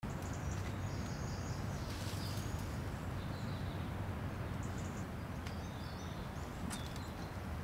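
Outdoor ambience: a steady low rumble with small birds chirping on and off, and a few faint clicks.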